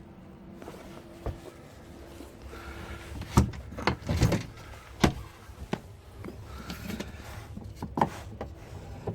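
Knocks and clatters of gear and storage being handled and moved about inside a van, irregular and loudest between about three and five seconds in. A faint steady hum lies under the first second or so.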